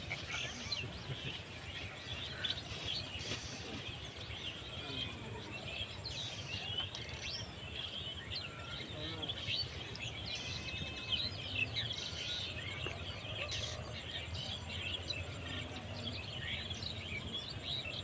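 Many small birds chirping and twittering without pause, quick short calls overlapping one another, over a steady low background rumble.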